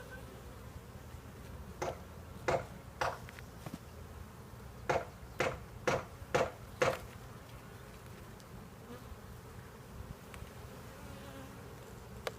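Honey bees buzzing steadily around an opened hive. About eight short, sharp knocks come between two and seven seconds in.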